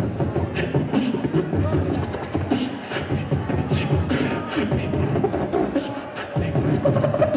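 A beatboxer's beat, made with the mouth: vocal kick-drum thumps with snare and hi-hat clicks in a steady, continuous rhythm.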